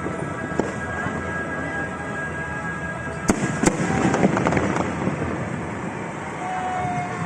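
Fireworks bursting: two sharp bangs about three seconds in, close together, followed by a second or so of crackling, over a steady background of music.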